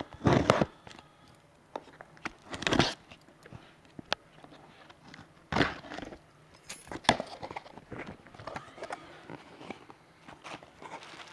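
Bubble wrap and packaging rustling and crinkling in irregular bursts as a boxed alternator is unwrapped by hand.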